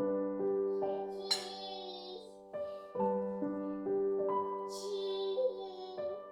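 Slow piano background music playing sustained chords. Twice, about a second in and again about five seconds in, a short high-pitched sound rises over it.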